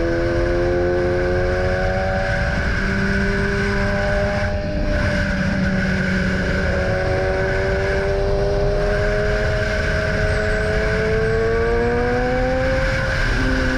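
BMW S1000R's inline-four engine running hard under way. Its pitch climbs slowly, then drops sharply near the end at a gear change.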